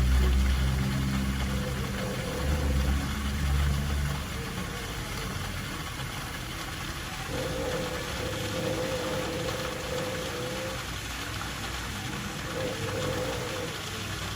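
An engine running under a steady hiss; its low hum is strongest in the first four seconds and then fades.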